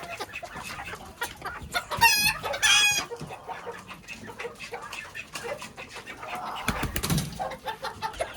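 Old English Game bantam chickens clucking, with a bantam rooster giving a short high-pitched crow in two parts about two seconds in. Scattered clicks and a brief low rumble near the end.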